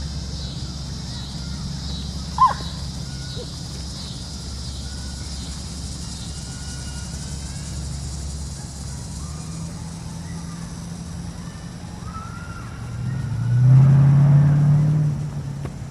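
Outdoor ambience: a steady low hum of distant traffic, a single short sharp call about two seconds in, a few faint bird chirps, and a louder engine rumble that swells and fades near the end as a vehicle passes.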